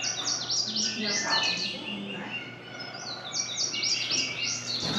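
Birds chirping: rapid runs of quick, high chirps that sweep downward, coming in two bursts with a short lull near the middle, over a steady low hum.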